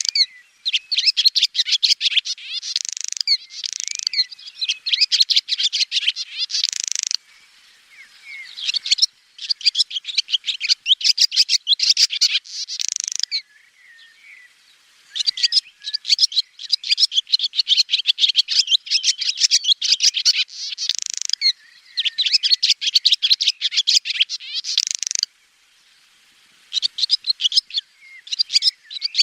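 Swallow twittering: runs of rapid, high chirps and trills a few seconds long, broken by short pauses.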